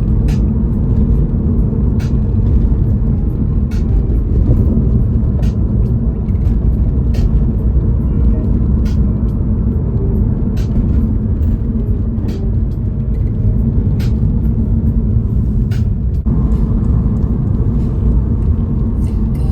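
Waterfall: a loud, steady, deep rush of falling water, unbroken throughout.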